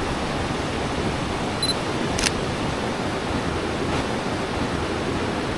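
Steady rush of a mountain river swollen with rain runoff. About a second and a half in, a camera gives a short high focus beep, then its shutter clicks once.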